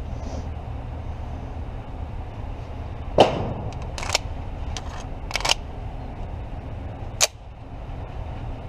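Pistol shots at a shooting range, irregularly spaced: a sharp shot about three seconds in, the loudest, then fainter shots a second later, a close pair a little over a second after that, and one more near the end, over a steady low hum.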